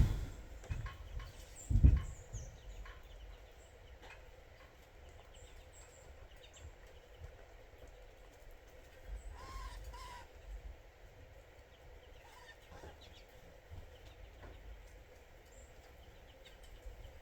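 Faint short bird calls: a few high chirps early on and two short lower notes about ten seconds in, with scattered light clicks. Two loud low thumps come in the first two seconds.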